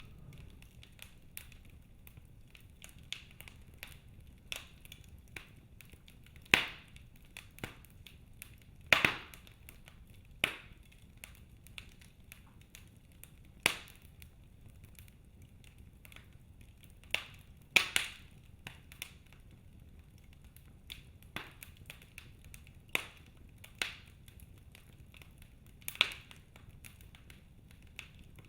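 Wood fire crackling in a fireplace: scattered sharp pops and snaps at irregular intervals, a handful of them much louder than the rest, over a faint low hiss.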